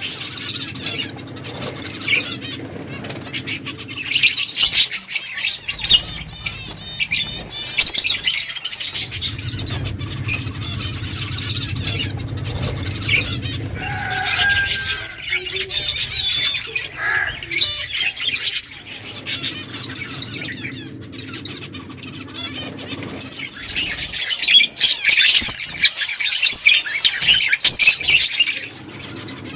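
A group of small finches chirping busily: dense, high, short calls that swell into crowded bursts a few times and ease off in between.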